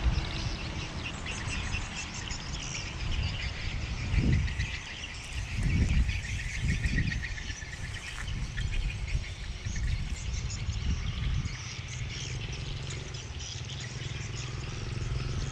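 Small birds chirping busily, with several low rumbles about four to seven seconds in and a steady low hum underneath.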